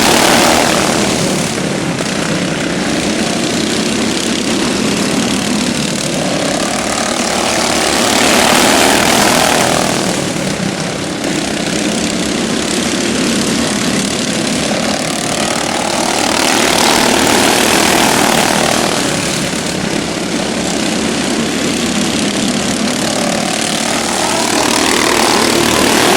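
Modified racing lawn mowers running flat out around an oval track, their engines swelling louder and rising in pitch each time the pack passes, about every eight seconds.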